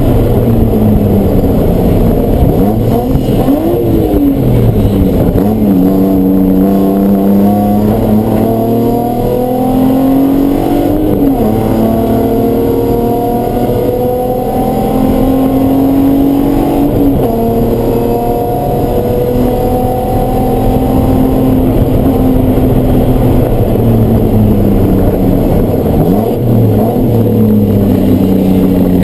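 Race car engine running hard on track. Its pitch climbs steadily, drops sharply and climbs again several times, with the sharpest drops about 11, 17 and 26 seconds in.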